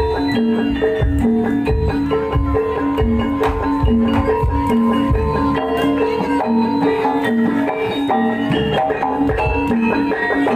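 Live Javanese gamelan music accompanying a kuda lumping horse dance. Tuned gongs or metallophones repeat a quick alternating pattern of notes over drum strokes.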